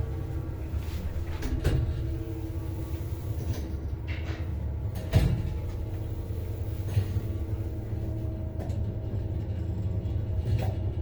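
Soviet MLZ passenger lift in motion: the steady low rumble and hum of the car travelling, with a few sharp clacks, the loudest about five seconds in.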